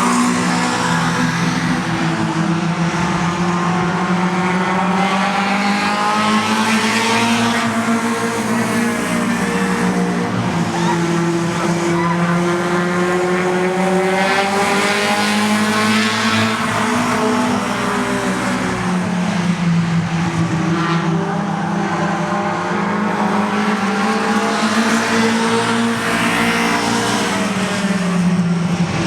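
Several oval-track race car engines running hard as the field laps, their pitch rising and falling as cars pass every few seconds.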